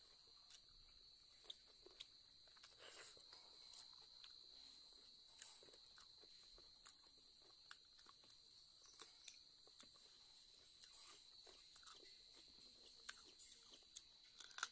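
Faint close-up chewing of a person eating rice and duck meat by hand, with scattered soft mouth clicks and one sharper click about five seconds in. A steady high-pitched whine sits underneath.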